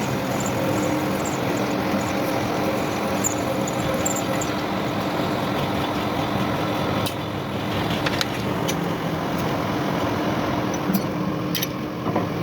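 Machinery running steadily with a low hum, with a few light clicks in the second half.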